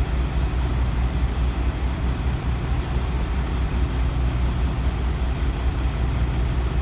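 Steady low rumble and hum of an idling vehicle engine, unchanging throughout.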